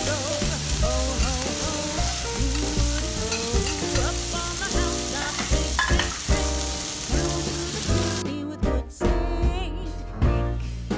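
Beef steak sizzling on a hot teppanyaki iron griddle, with background music over it. The sizzle cuts off suddenly about eight seconds in, leaving only the music.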